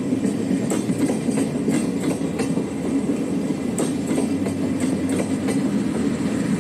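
Train running along the track: a steady hum with scattered clicks from the wheels and rails.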